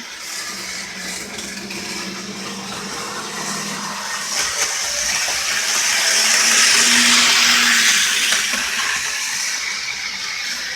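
HO-scale model train running on the layout's track, its small electric motor whirring with a steady hum, growing louder about six seconds in and easing off again toward the end.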